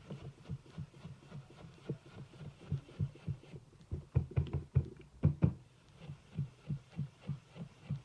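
Stampin' Up! blending brush being worked in small circles on the ink pad and card, giving soft, even thuds about three a second, with a louder, sharper patch in the middle.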